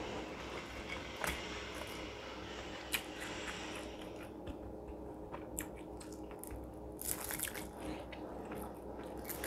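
Close-miked chewing and crunching of a crisp batter-fried green chili fritter (rempeyek-style). Faint crunches come now and then, with a cluster about seven seconds in, over a low steady hum.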